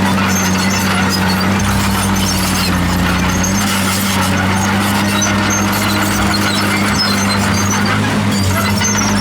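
Komatsu D51PX bulldozer working, its diesel engine running steadily while its steel tracks squeal in short, high-pitched squeaks.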